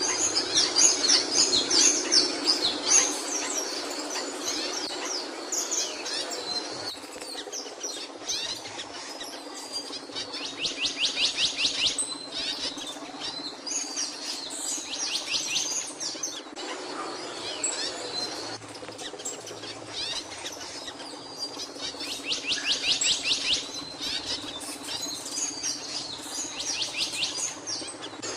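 Capuchino songbird singing: high chirping phrases, with a fast trill about 11 seconds in and again about 23 seconds in, over a steady low hum.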